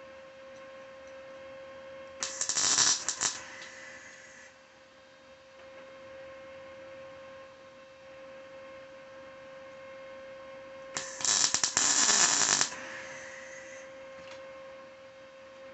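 Two short bursts of welding arc crackle, the first about a second long a couple of seconds in and the second about a second and a half long near the end, as a nut is welded to a bolt. A steady hum runs underneath.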